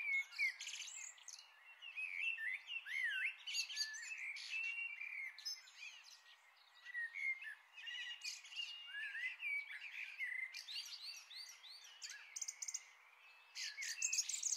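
Several songbirds singing and chirping, a dense mix of short whistled phrases and quick calls, with brief lulls.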